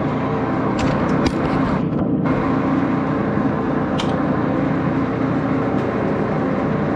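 Axelson lathe running steadily with a constant hum, broken by a few sharp clicks about one second in, again just after, and near four seconds.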